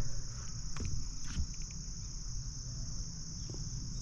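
Crickets chirping in a steady, unbroken chorus, with a few faint clicks and handling noises in the first second or so and a low rumble underneath.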